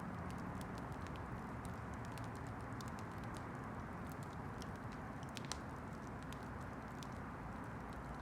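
Campfire burning, with a steady low hiss under many scattered sharp crackles and pops, one louder pop about five and a half seconds in.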